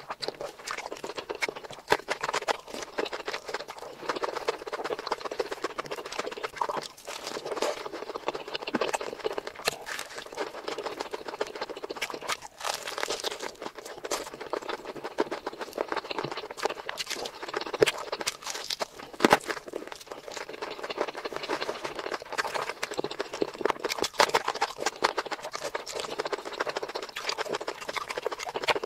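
Close-miked eating sounds: continuous wet chewing and mouth smacking, with many quick little clicks.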